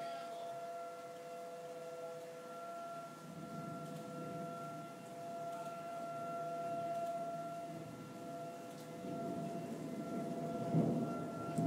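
Outdoor tornado warning siren sounding a steady chord of held tones that swells and fades slightly at times. A low rushing noise of storm wind and rain builds underneath from about three seconds in.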